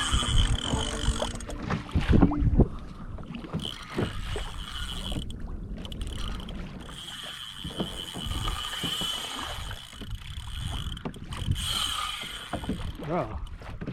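Sounds on a kayak while a hooked fish is being fought: water sloshing against the hull, and handling knocks and low thumps that are loudest in the first few seconds. A steady high-pitched whine runs through, dropping out a few times.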